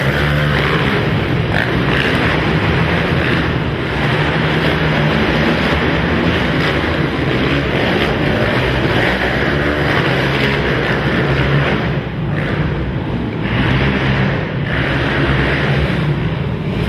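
Quad (ATV) racing engines running hard around the track, a loud continuous drone of revving motors that dips briefly twice near the end.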